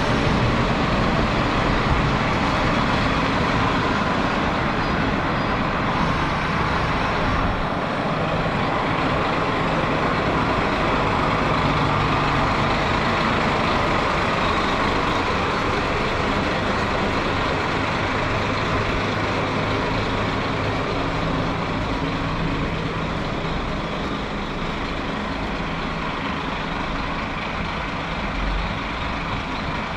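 A large vehicle's engine running steadily under a constant wash of mechanical noise, fading slightly in the last third.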